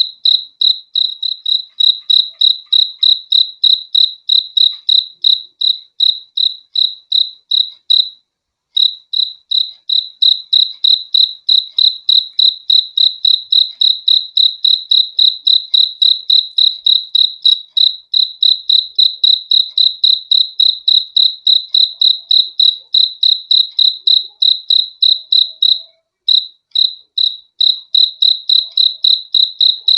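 Cricket chirping in a fast, even, high-pitched pulse of about four to five chirps a second. It breaks off briefly about eight seconds in and falters again near the end.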